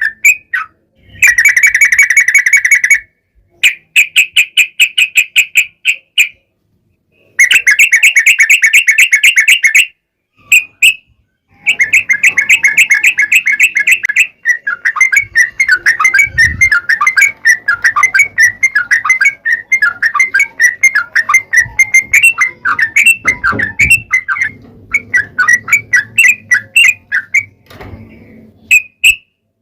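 Yellow-vented bulbul (trucukan) singing a long, rapid chattering trill of fast repeated notes. It comes first in several bursts of two to three seconds with short pauses, then in one longer unbroken run.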